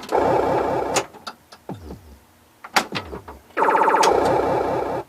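1979 Williams Gorgar pinball machine in play: its electronic sound effects sound in two stretches, in about the first second and again from a little past the middle, with sharp clicks and knocks of the ball and playfield mechanisms in the quieter gap between.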